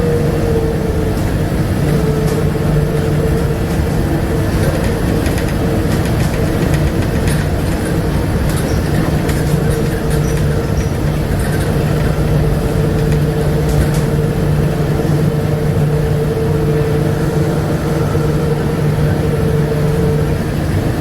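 A Bombardier APM100 rubber-tyred people mover running along its guideway, heard with a steady motor whine over a continuous running rumble. The whine's pitch eases down slightly in the first second, holds steady, then starts to drop again at the very end.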